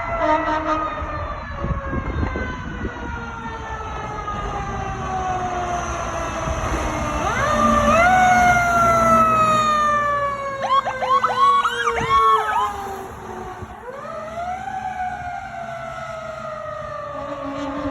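Pierce fire engine's siren sounding while the truck responds: long wails that rise quickly and then slowly fall in pitch, three times, with a run of quick up-and-down sweeps in the middle. The truck's engine rumbles underneath.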